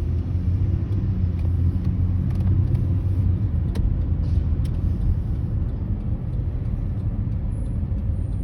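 Heavy emergency vehicle's engine rumbling as it drives past, growing loudest about two to three seconds in and then slowly easing off, with no siren.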